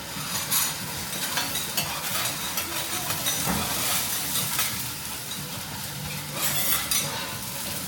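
Vegetables sizzling in oil on a teppanyaki hot plate, with repeated quick clicks and scrapes of metal spatulas against the griddle.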